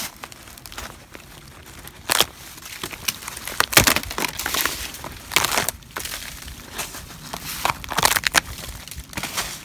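Footsteps crunching and crackling over fallen branches and brush, in a series of irregular loud crunches.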